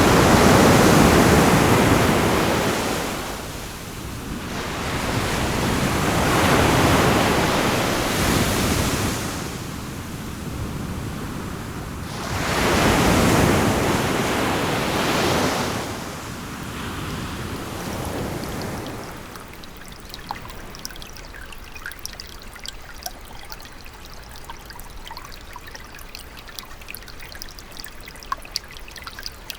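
Sea waves washing ashore, each swell rising and falling away about every six seconds. About nineteen seconds in they give way to a quieter trickle of running water with scattered small drips.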